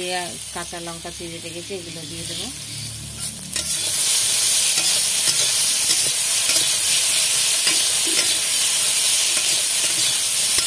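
Cubes of sola kochu (taro) and potato frying in oil in a kadai while a metal spatula stirs them: steady sizzling, with the spatula scraping and tapping against the pan. The sizzle grows clearly louder about four seconds in.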